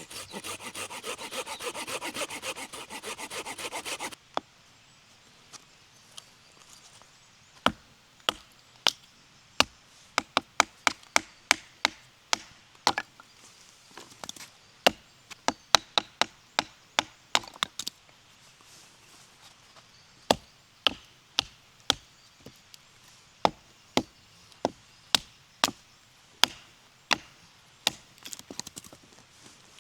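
Wood being sawn with a small hand saw in quick rasping strokes for about four seconds, stopping suddenly. Then comes a long irregular run of sharp wooden snaps and knocks, bunched at times into several a second, as firewood is broken up.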